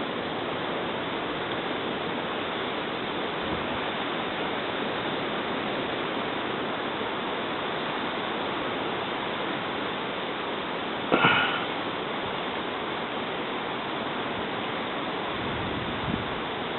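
Steady outdoor rushing noise, with a short, louder, higher-pitched sound about eleven seconds in.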